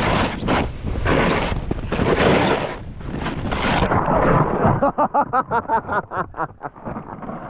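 Snowboard scraping and sliding over crusty snow, with wind rushing on the microphone; from about four and a half seconds in the board chatters in a fast, even run of about six pulses a second.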